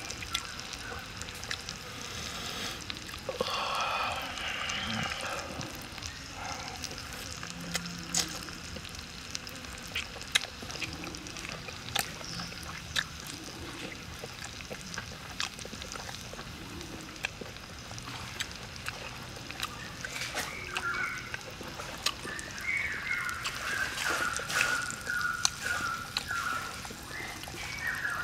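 Close-up eating sounds: wet chewing and sharp mouth clicks from eating grilled pig intestine, over a steady outdoor hiss. Near the end an animal calls in short repeated high notes.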